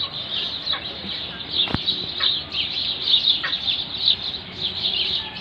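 Many birds chirping and calling at once, a dense, unbroken chatter of short high calls, with one sharp click a little under two seconds in.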